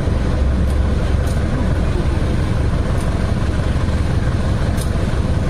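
Steady low rumble of a diesel-hauled passenger train, with a few faint clicks.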